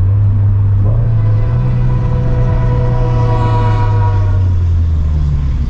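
Freight train horn sounding one long blast that starts about a second in and fades out after a few seconds, over the steady low drone of the turbocharged Scion FR-S's flat-four engine and exhaust.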